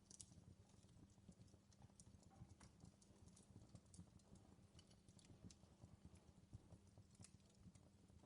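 Fireplace fire crackling faintly, with irregular small pops and snaps over a low steady rumble.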